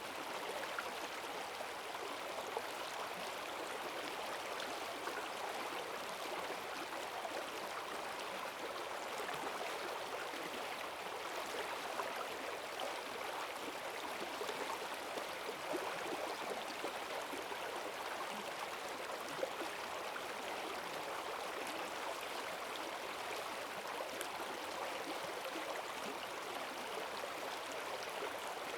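Forest stream swollen by heavy rain, rushing and gurgling steadily over its bed in strong currents.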